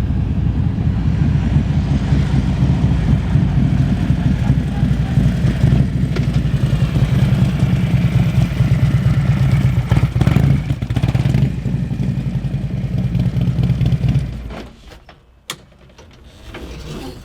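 Harley-Davidson Electra Glide's V-twin engine running loud and close, then falling away sharply about fourteen seconds in; a single click follows.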